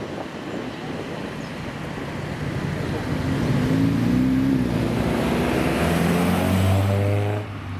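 A customized old car's engine drawing closer and getting louder, then revving up with a rising pitch near the end before dropping away suddenly.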